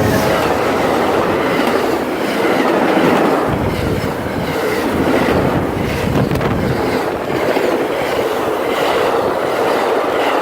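Amtrak passenger train passing at speed, a loud, steady rush of cars going by with wheels clicking over the rail joints.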